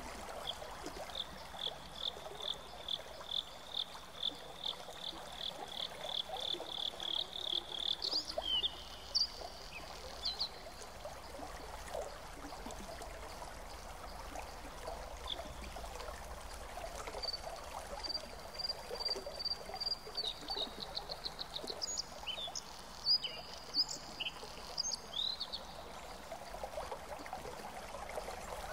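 A bird calling in two runs of short, high, repeated notes. The first run lasts several seconds and quickens near its end; the second comes about halfway through and ends in a faster trill and a few scattered notes. A steady low hiss lies underneath.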